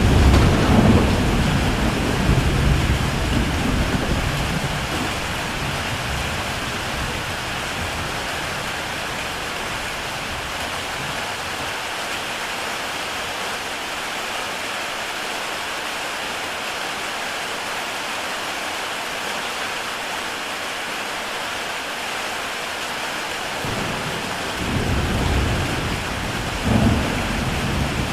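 Heavy rain on a tile roof: a steady, dense hiss of raindrops. Rolling thunder rumbles low under it at the start, dies away over the first few seconds, and builds again near the end.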